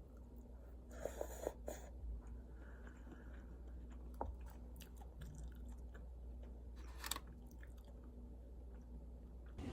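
Quiet eating sounds: soft crunching and small clicks of food being chewed, over a steady low hum, with a small cluster about a second in and another sharp click near the end.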